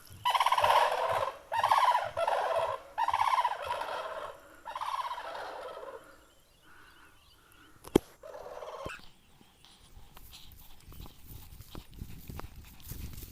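Common cranes calling: about five loud, pulsing calls in the first six seconds, then a sharp click and one shorter call about eight seconds in. After that, only faint background sound remains.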